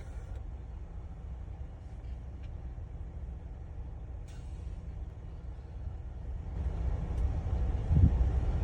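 Diesel dump truck engine idling with a steady low rumble that grows louder about six and a half seconds in, with a single knock near the end.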